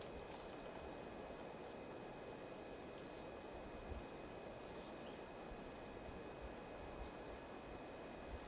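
Small birds at a winter feeder giving brief, high-pitched chip calls, scattered every second or so over a steady low hum of outdoor background noise, with a couple of soft low thumps.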